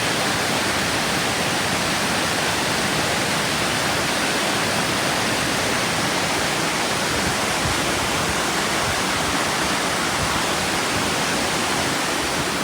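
Vickery Creek's water rushing over rocks: a loud, steady, unbroken noise of fast-flowing water.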